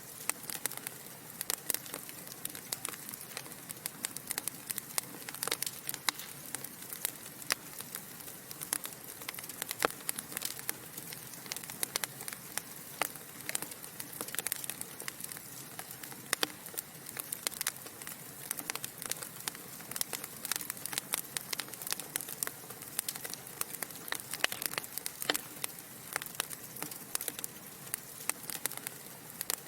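Wood fire burning in a fireplace: a constant soft hiss with dense, irregular pops and crackles from the burning logs.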